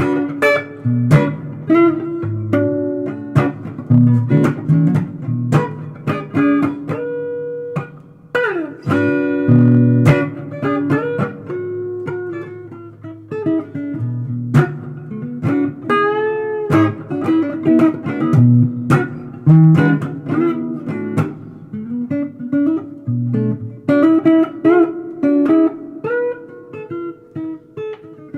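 Solo guitar improvising a blues-flavoured line of picked single notes and chords, with a note sliding down in pitch about 8 s in and a bent note wavering with vibrato around 16 s.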